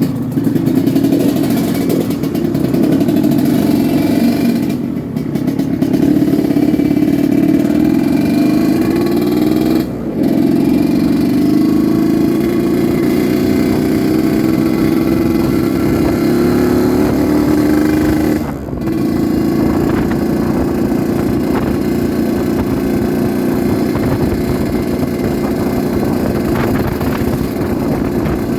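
Yamaha RX-King 135cc single-cylinder two-stroke motorcycle being ridden, its engine pitch climbing slowly in each gear. The level dips briefly three times, and after each dip the pitch drops before climbing again, as with gear changes.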